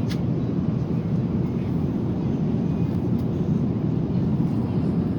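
Steady low rumble of an Airbus A350-900 heard from inside the passenger cabin: engine and airflow noise, with a faint click just after the start.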